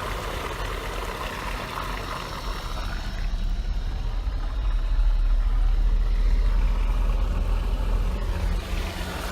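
Vehicle engine and road noise from inside a moving car or truck, a steady low rumble that grows louder about halfway through.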